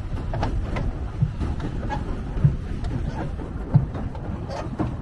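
Low rumble of wind and harbour water aboard a pedal boat, with a few dull knocks about a second apart as waves hit the hull.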